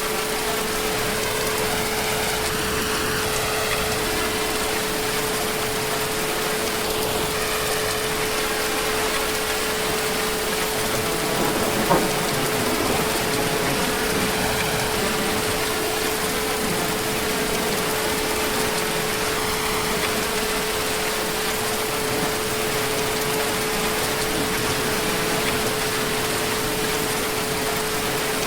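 Heavy rain falling steadily, an even hiss of rain with a faint steady tone beneath it. A single sharp tap stands out about twelve seconds in.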